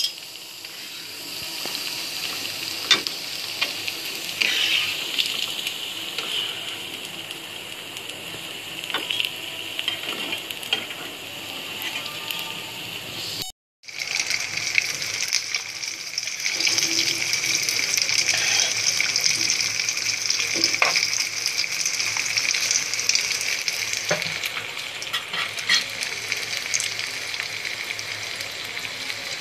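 Potato rings deep-frying in hot ghee: a steady sizzle of bubbling fat, with occasional small pops. About halfway through the sound cuts out for a moment, then comes back louder.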